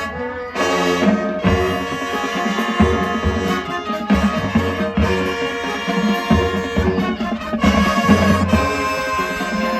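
Marching band playing, brass section over drums, with a short break just after the start before the full band comes back in.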